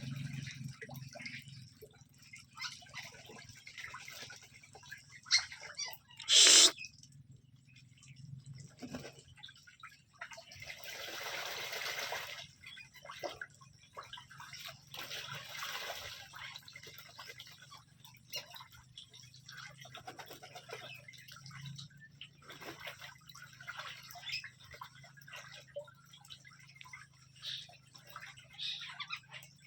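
Water splashing and dripping as whistling ducks and Muscovy ducks bathe, in irregular splashes with one much louder splash about six seconds in. A low steady hum runs underneath.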